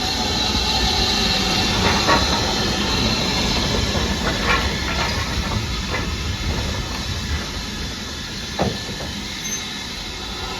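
Railway train sound: a steady hiss with a few sharp clanks and knocks spread through.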